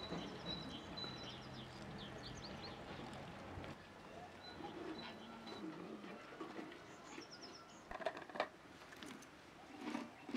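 Small birds chirping in short, high twitters over a faint outdoor background, with a couple of louder short sounds near the end.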